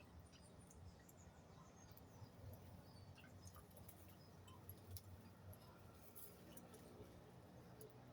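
Faint, scattered high cheeps and clicks from a group of small birds, over a faint low rumble.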